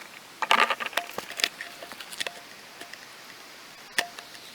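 Empty plastic water bottle crackling and clicking as it is handled and pushed against the bike frame, with scattered small clicks and one sharp click about four seconds in.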